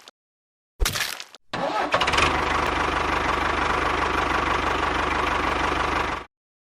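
A small engine cranks briefly, catches about a second and a half in, and runs steadily with a fast, even beat, then cuts off suddenly near the end.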